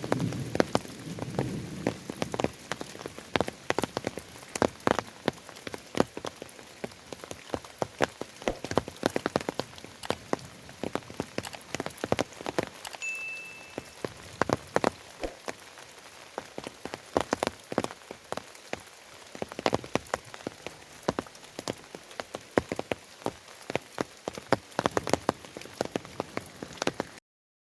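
Steady rain with many close drops striking as sharp, separate taps over a constant hiss. A brief high chirp sounds about halfway through, and the sound cuts off suddenly just before the end.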